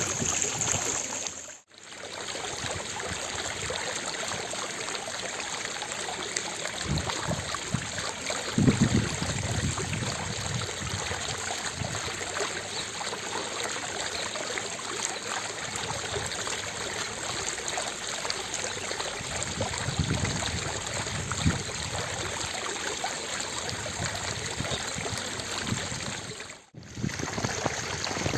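Fountain water splashing and falling steadily, a dense even rush, cut off briefly twice: about two seconds in and near the end.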